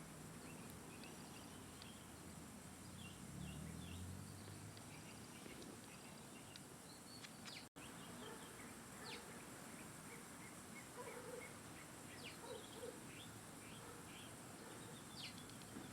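Small birds chirping faintly: short, scattered high chirps over a steady background hiss. The sound drops out for an instant about eight seconds in.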